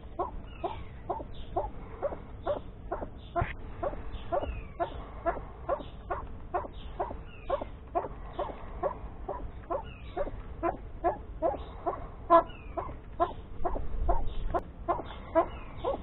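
A caged bird calling over and over: short, evenly spaced calls at about two or three a second, with no break.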